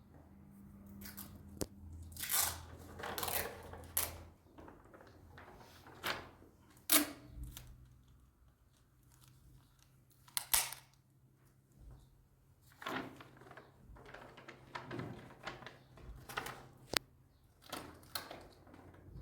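Irregular tearing, crunching and rustling handling sounds, about a dozen separate bursts with a few sharp snaps among them.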